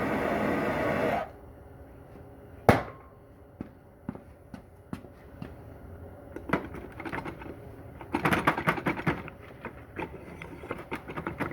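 A steady rushing noise that cuts off about a second in, then one sharp knock, followed by scattered clinks and rattles of metal parts and tools being handled, busiest about eight seconds in.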